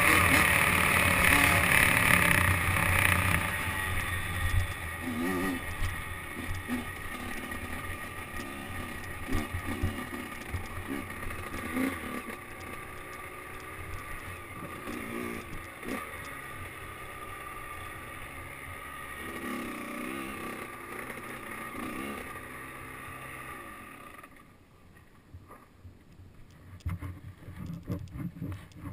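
Motocross dirt bike engine, loud at first and fading over several seconds as the bike pulls away, then heard faintly with rising and falling revs. Near the end it drops almost out of hearing.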